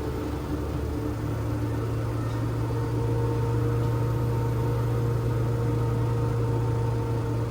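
LG washing machine running mid-cycle: a steady low motor hum with a faint whine that comes in a few seconds in.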